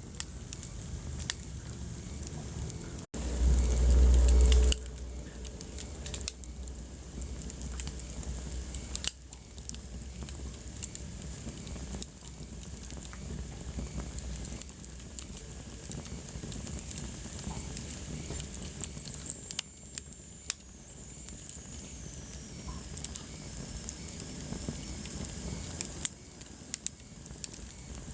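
Wood fire in a fireplace crackling steadily, with frequent small pops and snaps. About three seconds in comes a short low rumble lasting about a second and a half, the loudest thing in the clip.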